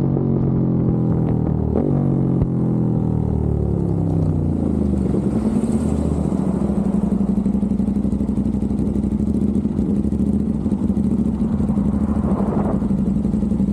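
Aprilia RS660's parallel-twin engine through a non-resonated Mivv X-M1 Evo exhaust. The revs fall back over the first few seconds, with a short rise about two seconds in, then settle into a steady idle.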